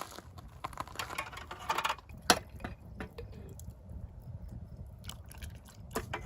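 Scattered light clicks and rustles of handling, with one sharper click about two seconds in, over a low steady background rumble.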